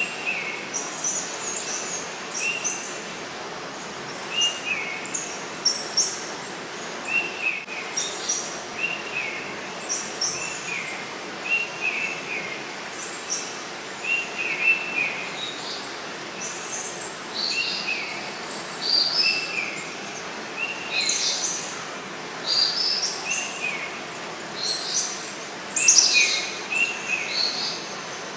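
Songbirds calling over a steady hiss of flowing river water: a short, downward-slurred call repeats about every second and a half, with higher, sharper chirps in between, growing busier in the second half.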